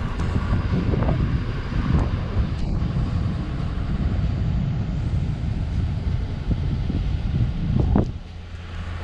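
A truck towing a travel trailer drives along: a steady low road and engine rumble with wind buffeting the microphone and a few brief knocks, dropping quieter about eight seconds in.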